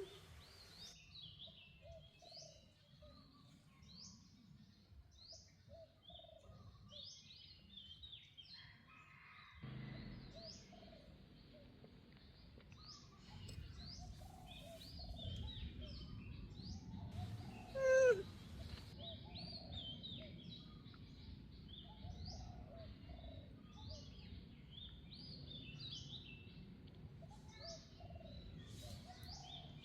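Many small birds chirping, short repeated calls throughout, under a low background rumble that sets in about a third of the way through. About eighteen seconds in, one louder call slides down in pitch.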